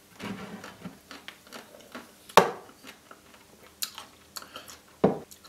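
Close-miked chewing of a white-chocolate-coated Maxibon ice cream sandwich, with wet mouth clicks and smacks. A sharp click about two and a half seconds in is the loudest sound, and a few softer ones follow.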